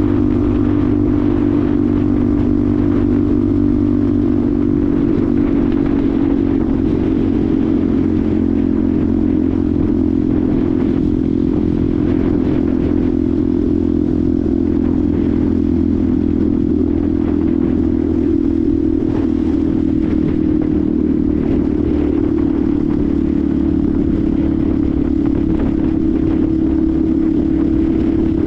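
Benelli TNT 125's single-cylinder 125 cc four-stroke engine running at a steady cruise, its pitch holding nearly even with only slight rises and dips.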